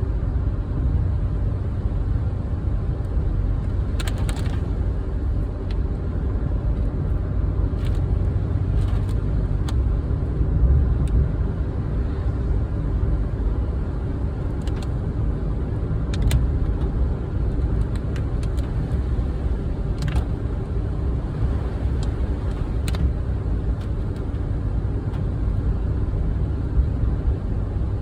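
Car driving: steady low road and engine noise, with a few sharp ticks at irregular moments.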